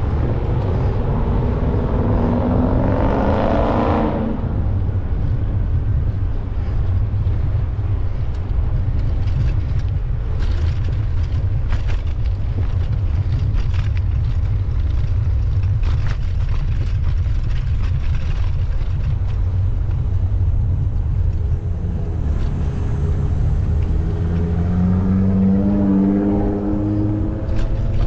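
Wind rumbling on the microphone while cycling, with passing traffic. A motor vehicle's engine rises in pitch as it accelerates, about the first four seconds and again near the end.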